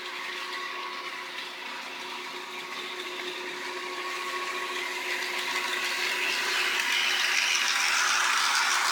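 HO scale model train running on the track: a steady electric motor hum with wheel and rail noise, growing louder in the second half as the train comes closer.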